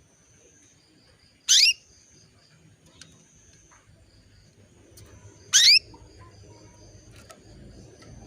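Female canary calling: two short, loud rising calls about four seconds apart, over faint high twittering. It is a hen's call to attract a cock bird.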